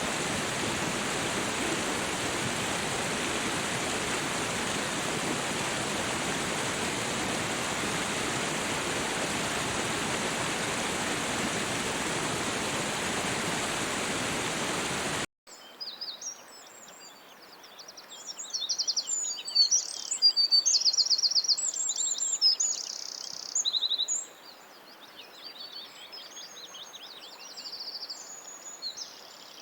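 Steady rush of falling or flowing water for about the first half, then an abrupt cut to songbirds singing: quick chirps and fast trills, some notes repeated rapidly, over a faint quiet background.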